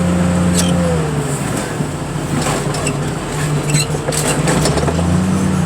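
Heavy equipment's engine running, its drone easing off about a second in and picking up again near the end, with a few sharp clicks over a steady noise haze.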